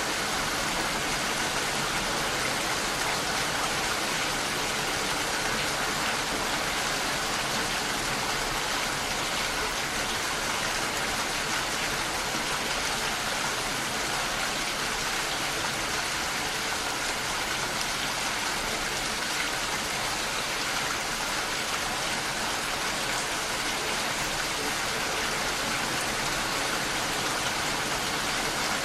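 Steady rainfall, gentle and even, mixed with the rush of running water, with no thunder or other events.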